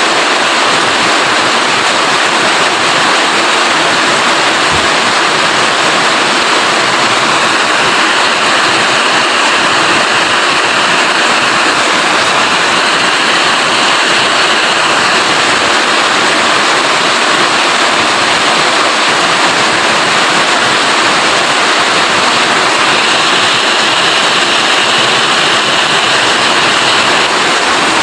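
Steady, loud rain falling, an even wash of noise throughout, with a slightly higher-pitched hiss swelling in twice, about a third of the way in and again near the end.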